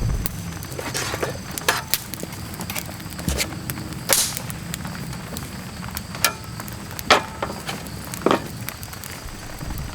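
Wood campfire crackling, with scattered sharp pops and snaps over a low steady rumble.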